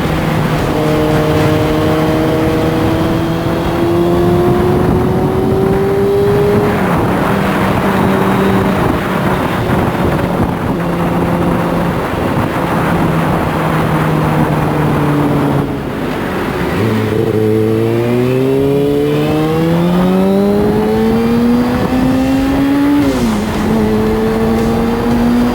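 Kawasaki Ninja ZX-6R inline-four running through a carbon fiber Delkevic exhaust, with wind rushing past. The revs hold fairly steady for a long stretch, dip briefly about two-thirds through as the throttle closes, then climb steadily for about six seconds under acceleration and drop sharply at an upshift near the end.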